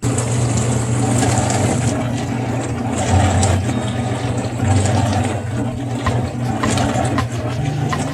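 AIRMSEN countertop dishwasher running a wash cycle: a steady low hum from its wash pump with water splashing inside, and light ticks here and there.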